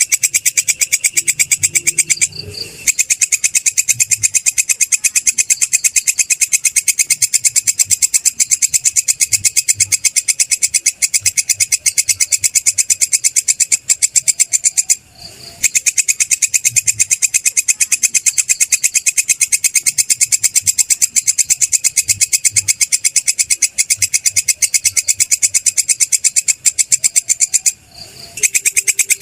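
Belalang kecek (kerik) singing insect calling: a loud, fast, evenly pulsed high-pitched trill that runs on steadily, broken by brief pauses about two seconds in, halfway through and near the end.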